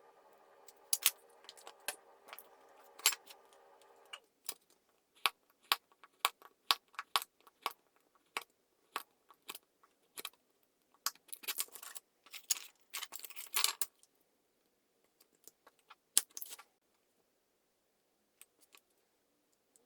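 Small tools and parts handled at a workbench: scattered sharp clicks and taps, with a stretch of rasping like cutting or scraping in the middle. A steady low hum stops about four seconds in.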